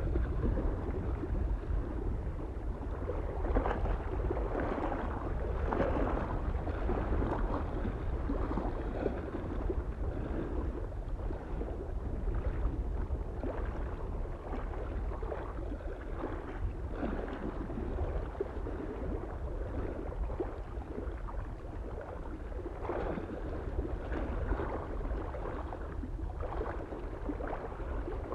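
Small waves lapping against a lake shore in irregular little splashes, over a steady low rumble of wind on the microphone.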